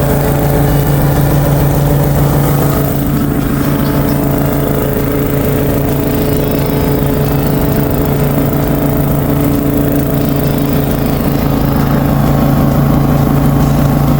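Small petrol engine of a garden machine running steadily at constant speed, with a strong low hum.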